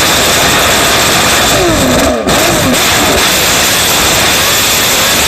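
Honda RA272's 1.5-litre V12 Formula 1 engine running very loudly and being blipped on the throttle. The revs fall away after the blips around the middle, with a brief dip in loudness about two seconds in.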